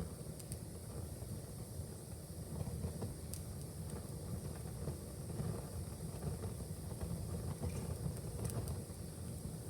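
Wood fire burning in a fireplace: a steady low rumble of the flames with a few sharp crackles and pops scattered through it.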